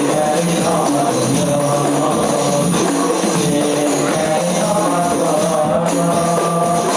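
Music from a rebana frame-drum ensemble: drums beating steadily in a dense rhythm under a held sung melody.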